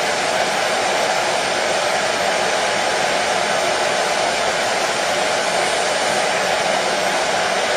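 Hair dryer running steadily, a constant even whoosh of blown air and motor noise with no change in speed.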